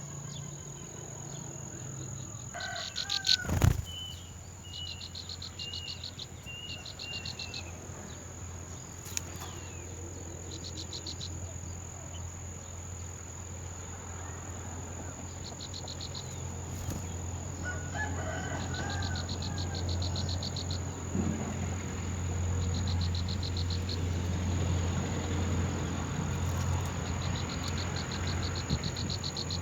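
Insects chirping in short pulsed trills over a steady high whine and a low hum, with a few short bird calls and one sharp knock about three and a half seconds in.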